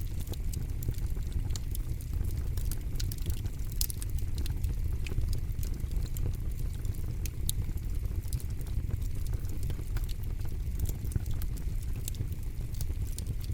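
Wood campfire burning, a steady low rumble of flames with frequent irregular sharp crackles and pops.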